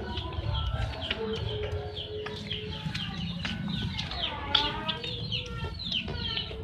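Several caged songbirds chirping and calling over one another: a dense run of quick, downward-sweeping chirps, with one held low whistle about a second in.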